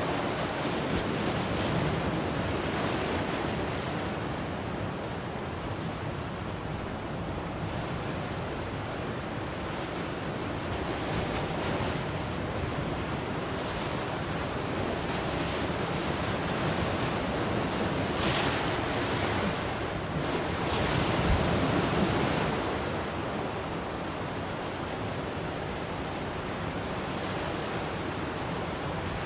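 Ocean surf: waves breaking and washing in a continuous rushing wash that swells and eases every few seconds, loudest a little past two-thirds of the way through, with some wind buffeting the microphone.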